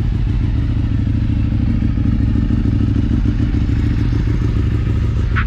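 Motorcycle engine running at a steady idle, a loud rough rumble, with a short rising whine just before the end.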